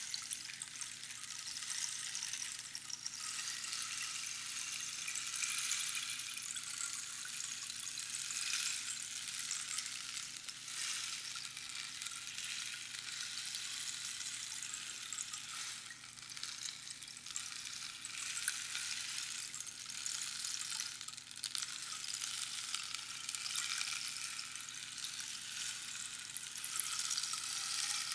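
Rainstick: pebbles trickling down through the pins of a hollow cactus tube, a continuous rain-like patter that swells and ebbs every few seconds as the stick is turned.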